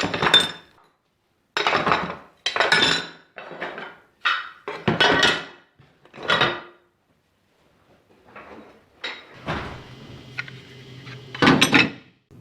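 Metal engine side casings clanking and rattling as they are picked up and handled, in a string of separate clatters. About three-quarters of the way through, a steady low mechanical hum starts, with one more loud clatter near the end.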